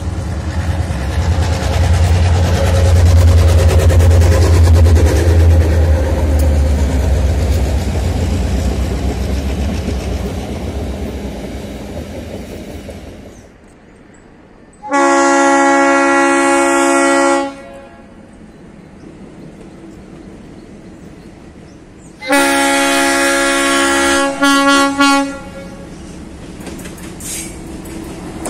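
A pair of EMD SD38 diesel-electric locomotives running past with a heavy, deep engine rumble that swells and then fades over about twelve seconds. After a cut, the horn of an MX620 diesel locomotive sounds a long chord of several tones. About five seconds later a second long blast breaks into short toots at its end.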